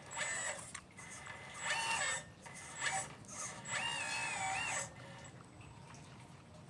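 Small electric motors of a radio-controlled model excavator whining in four short bursts of varying length as it is worked, the pitch rising and falling with the motor speed; the longest burst, about a second, comes near the middle.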